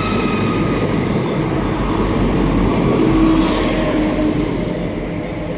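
A ScotRail Class 170 Turbostar diesel multiple unit passing at about walking speed, its engines giving a steady low rumble with a held tone that swells to its loudest about three seconds in, then eases slightly.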